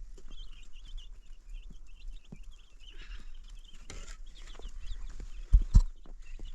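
Birds chirping in quick, short, high calls throughout, with scattered knocks and two heavy thumps just before the end.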